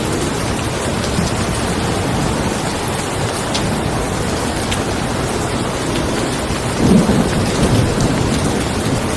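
Steady rain with the low rumble of thunder, which swells briefly about seven seconds in.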